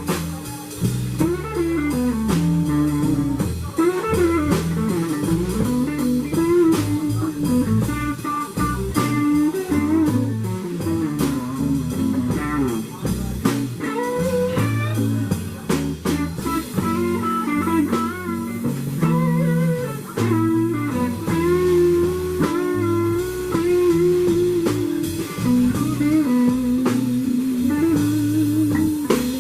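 Blues band playing an instrumental break: an electric guitar lead with bending notes over a second guitar and drum kit.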